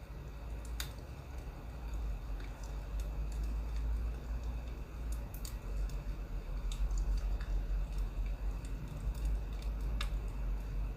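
Burning firewood crackling: scattered sharp pops and snaps, a dozen or so, irregularly spaced, over a steady low rumble.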